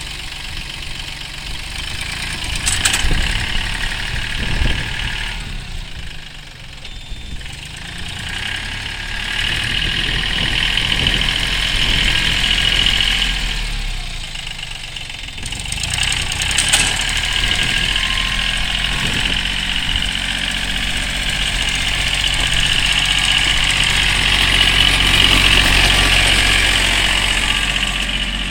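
Iseki TA247F compact tractor's diesel engine running just after starting, its loudness rising and falling several times.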